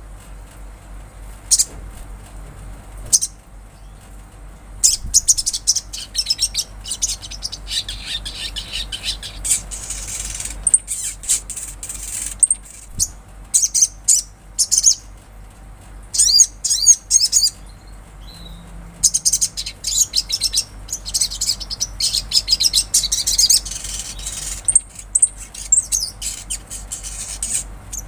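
Spiderhunter singing: bursts of high, thin chirps and quick warbling trills, with short pauses between the phrases.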